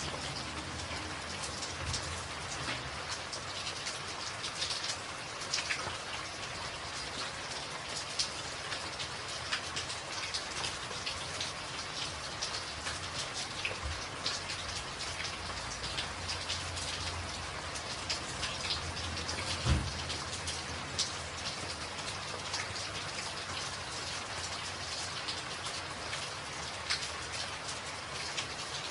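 Rain falling steadily on a tin roof, with frequent sharp hits of single drops. There is one low thump about two-thirds of the way through.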